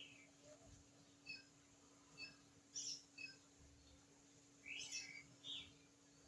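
Birds chirping faintly: short high notes repeating about once a second, with a few louder chirps near the middle and toward the end.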